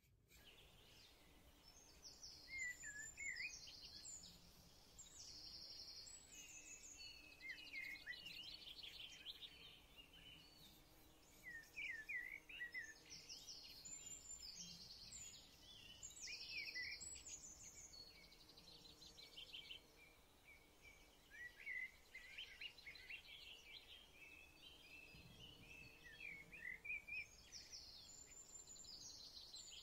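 Faint birdsong: small birds chirping and twittering in short repeated phrases, over a faint low steady hum.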